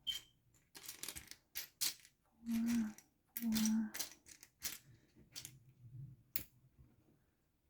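Plastic Lego bricks clicking and clattering as pieces are picked out and handled, a string of sharp irregular clicks. Two short hums of a voice sound about two and a half and three and a half seconds in.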